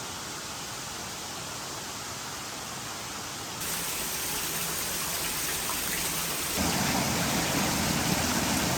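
Waterfall: a steady rush of falling water that steps up louder twice, a little under halfway through and again about three quarters of the way in.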